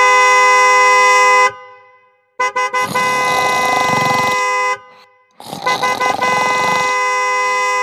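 A two-note vehicle horn sounding three long blasts, each opened by a few quick toots.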